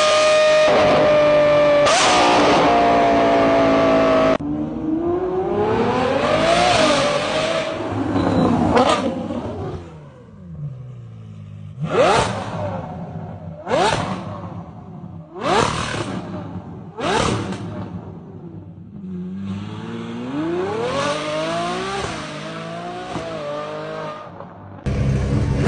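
V12 car engines revving through their exhausts in a run of separate clips. First a high steady note that breaks off abruptly, then revs rising and falling, then four quick sharp throttle blips about a second and a half apart, then another climb and fall in revs.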